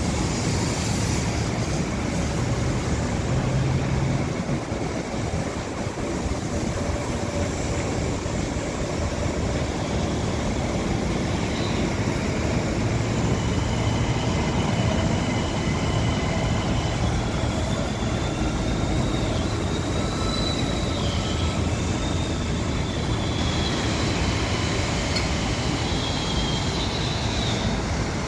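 Kawasaki M9 electric multiple-unit commuter train rolling slowly past with a steady low rumble. From about halfway through, its wheels squeal in a thin, high, wavering whine.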